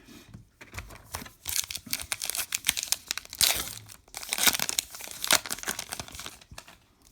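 Baseball card pack wrapper being torn open and crinkled by hand, in a long run of irregular crackling and tearing.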